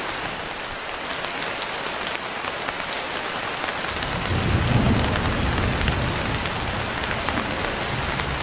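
Steady rain, with fine drop patter. About halfway through, a low rumble of thunder rolls in and swells, then fades back under the rain.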